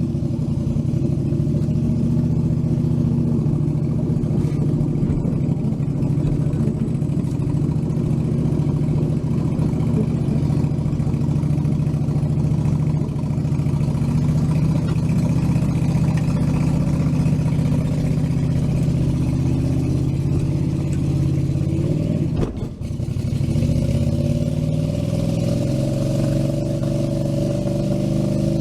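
A small tractor's engine running steadily under load as it tows a car; about twenty-two seconds in it dips briefly, then its revs rise.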